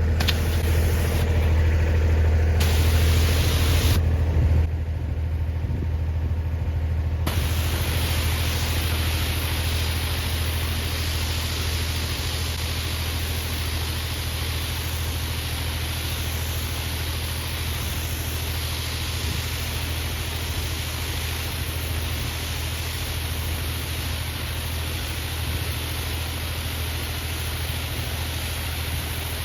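Tractor engine running steadily with a low hum while it drives a power washer. From about seven seconds in, the steady hiss of the high-pressure water spray joins it.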